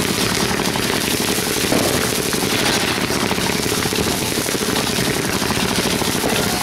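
A string of firecrackers going off in a rapid, unbroken run of bangs that stops abruptly at the end.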